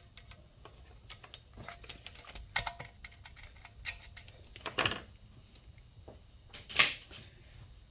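Scattered light clicks and taps of small metal fittings and parts being handled and fitted together, with a louder click a little before the end.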